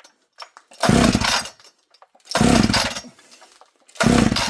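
Two-stroke chainsaw pulled over on its recoil starter three times, each pull a short burst of the engine cranking without catching; the owner thinks he has just flooded it.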